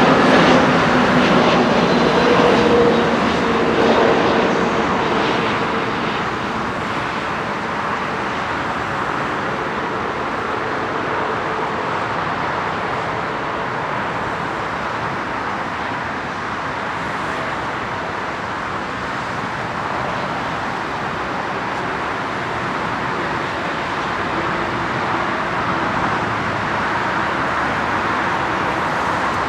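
Airbus A320neo's twin jet engines passing close, with a whine that drops slightly in pitch over the first few seconds, then settling into a steady, quieter roar.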